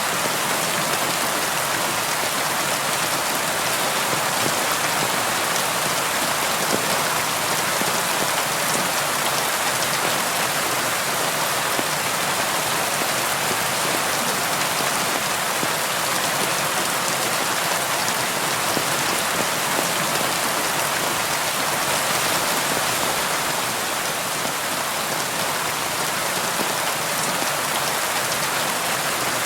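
Steady rain falling on a window: an even hiss of rainfall with fine drop patter, with no change in intensity.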